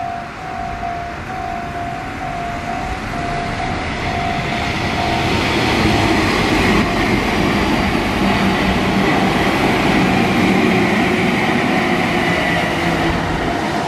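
A Meitetsu red-and-white electric train approaches and passes close by, its running rumble and whine growing from about four seconds in and staying loud until near the end. Early on, a level-crossing warning bell rings in a steady repeating ding, which the passing train then drowns out.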